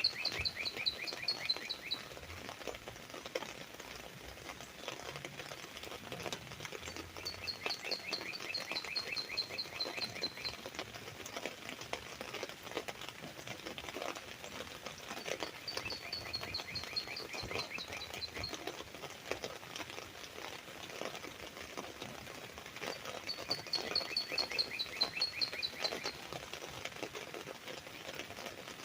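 Northern cardinal singing a phrase of quick, repeated down-slurred whistles about every eight seconds, four phrases in all, with the first already under way at the start. Under the song, rain drops keep up a steady, close patter of small taps on an umbrella.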